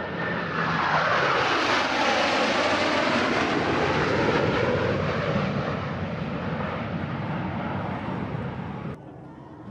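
Blue Angels F/A-18 jet making a flyby: loud jet engine noise that swells as it approaches, drops in pitch as it passes, then slowly fades, cutting off abruptly near the end.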